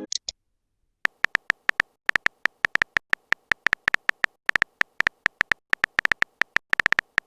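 Phone on-screen keyboard typing sound effect: a long run of short, sharp tapping clicks, several a second in uneven bursts, after a brief pause near the start.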